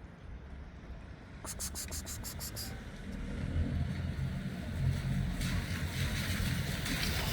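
A motor vehicle approaching, its engine rumble and tyre noise growing steadily louder. A brief run of rapid high ticking comes about one and a half seconds in.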